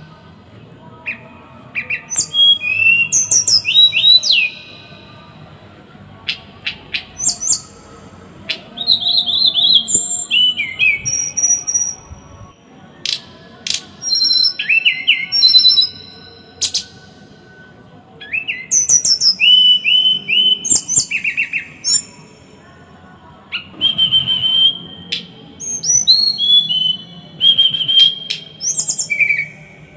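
Small songbird singing in bursts of rapid, sharp high-pitched notes and trills, the dense, harsh 'tembakan' phrases used to tutor caged birds, with short pauses between phrases.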